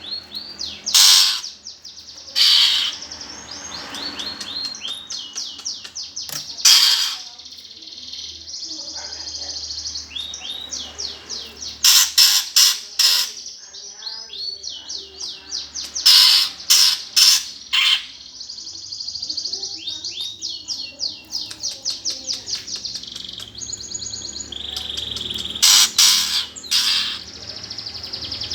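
Eurasian tree sparrows chattering and chirping in a fight: fast high trills run throughout, broken every few seconds by loud clusters of harsh chirps.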